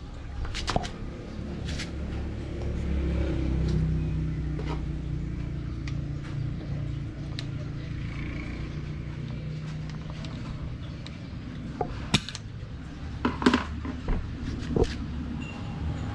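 A few sharp clicks and knocks of tools on a bicycle suspension fork being taken apart, most of them near the end, over a low steady rumble that swells in the first half.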